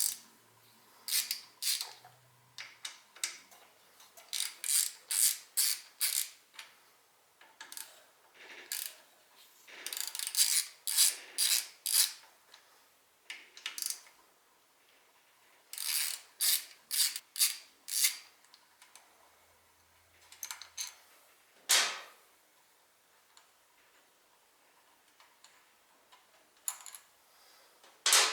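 Ratchet wrench clicking in short runs of strokes, about two or three clicks a second, with pauses between runs, as fasteners are worked loose during engine teardown. One louder single knock a little past the middle.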